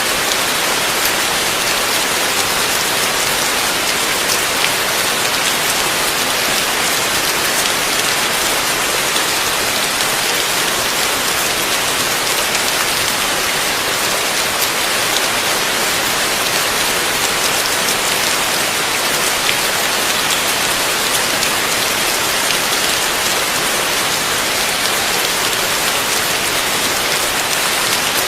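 Heavy rain falling steadily, a dense even hiss of drops on surfaces with fine drop ticks.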